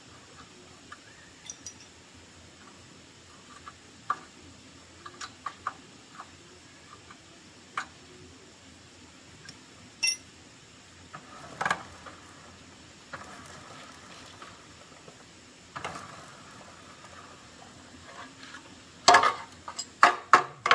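Scattered clicks and clinks of small hard objects being handled, like tools and metal parts in a repair job, with a louder knock about halfway and a quick cluster of loud knocks near the end.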